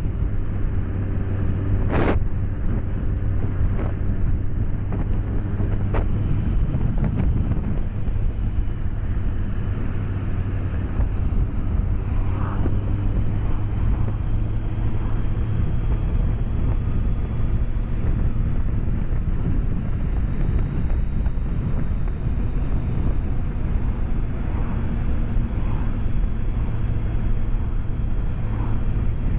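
BMW K1200S's inline four-cylinder engine running steadily under way, mixed with wind rush as heard from a microphone inside the rider's helmet. A few sharp clicks in the first six seconds or so.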